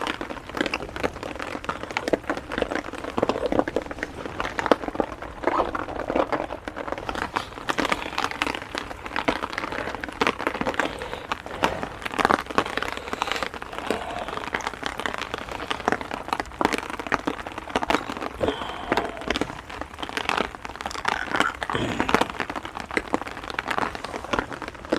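Heavy rain falling on a small tarp overhead: a dense, irregular run of taps over a steady hiss, with crinkling and rustling of things being handled close by.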